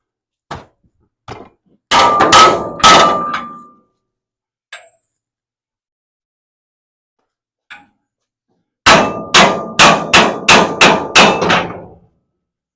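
Hammer blows on a steel car-body rotisserie mount, knocking it loose. A few light taps are followed by three hard, ringing strikes about two seconds in, then a fast run of about nine strikes near the end.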